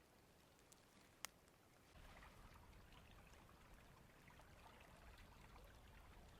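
Faint river water flowing, growing a little louder about two seconds in, with a single sharp click a little over a second in.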